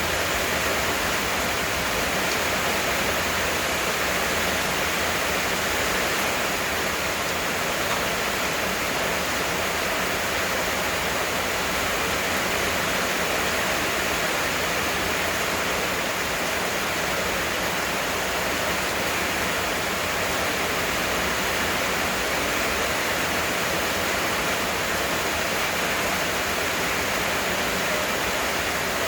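Heavy rain falling steadily: an even, unbroken hiss with no single drops standing out.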